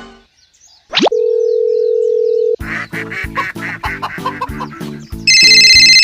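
Edited-in sound effects and music: a quick rising whistle-like glide, then a steady beep tone held for about a second and a half, then bouncy background music with short plucked notes. Near the end a loud, high electronic ringing, like a phone ringtone, starts.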